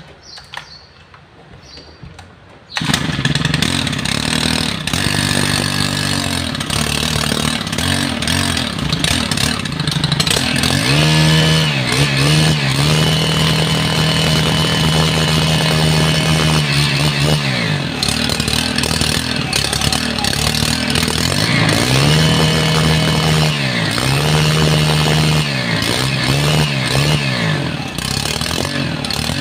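Stihl BT131 post hole borer's small 36 cc four-stroke-valved two-stroke (4-MIX) engine catching on a pull of the starter cord about three seconds in, then running, revved up and held high twice before dropping back. It starts on one pull after its carburettor has been reset, curing its hard starting.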